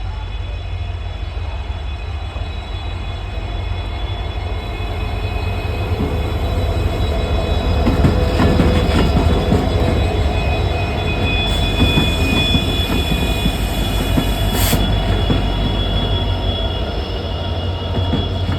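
Indian Railways train of LHB coaches running on the rails, with a loud constant low rumble and steady high-pitched metallic squealing from the wheels. Clicks come from the track about halfway through, and there is one sharp knock near the end.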